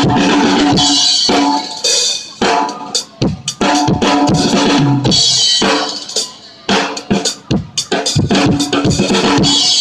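Loud band music driven by a drum kit: fast, hard-hit bass drum, snare and cymbals over held notes.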